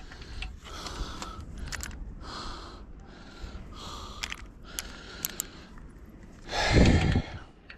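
A man breathing hard in short bursts while straining on a wrench, with a louder grunt of effort near the end and light metallic clicks of the wrench on the bolt.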